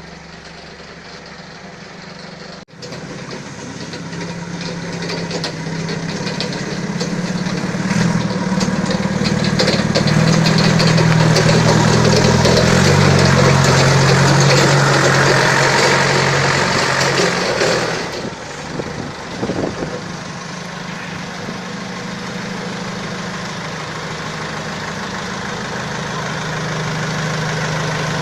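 Balkancar forklift engine running. It grows louder from a few seconds in, stays at its loudest through the middle, then drops back to a steadier, quieter run after about 18 seconds.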